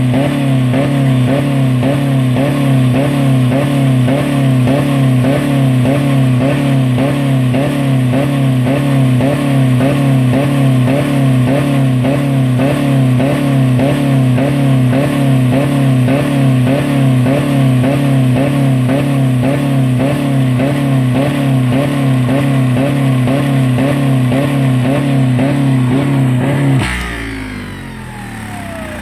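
2000 Dodge Neon's 2.0-litre four-cylinder engine running hard at about 4000 rpm with no oil or coolant, a loud, steady note with a regular pulse. Near the end it suddenly gives out and winds down with falling pitch: the engine failing, which the owner thinks sounds like the timing belt breaking.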